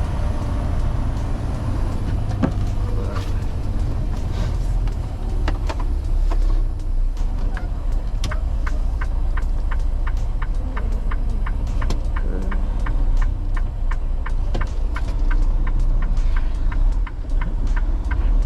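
Semi truck engine running with a steady low rumble, heard while driving. Through the middle a regular ticking comes in at about three ticks a second, then stops.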